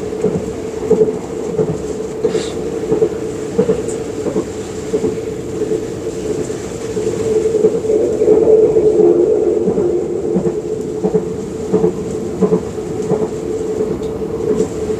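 Passenger train running at speed, heard from inside the carriage: a steady running hum with short knocks from the wheels on the track, coming about every two-thirds of a second near the end.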